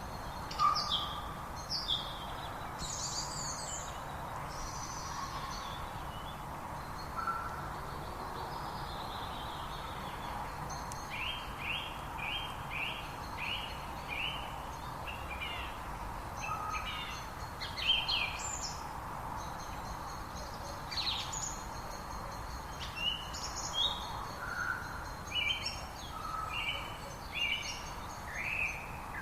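Several songbirds singing and calling: clusters of short high chirps and quick trills, with a long steady high note from about the middle to near the end, over a steady background hiss.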